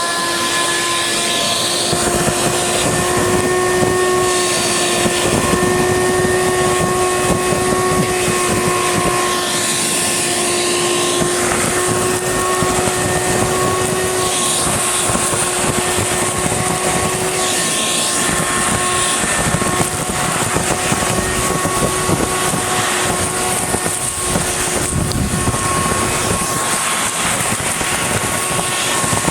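Shop vac running steadily, sucking up snow through its hose: a steady motor whine over rushing air.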